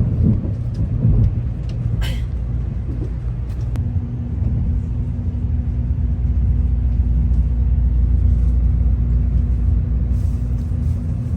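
Steady low rumble of a moving vehicle heard from inside, with a brief sharp sound about two seconds in and a steady hum joining a little under four seconds in.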